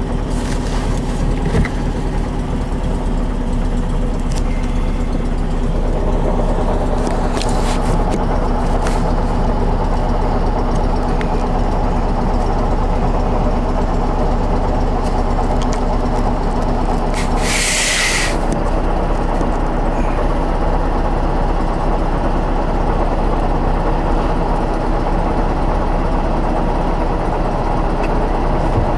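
1965 Porsche 356C 1600 SC's air-cooled flat-four engine idling steadily, heard from inside the car, with a short hiss about two-thirds of the way through.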